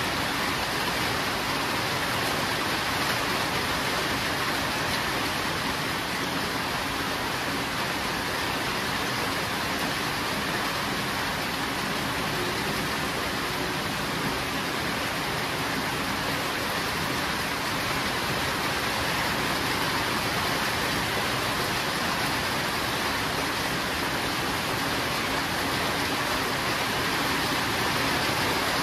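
Steady rain falling, an even hiss with no thunder and no change in strength.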